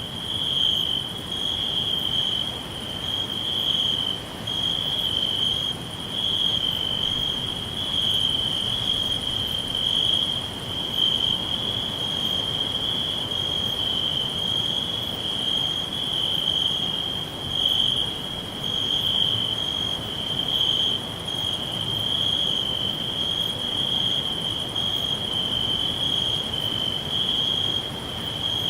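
Crickets chirping in a continuous high-pitched trill that swells and fades slightly in level, over a soft low background hiss.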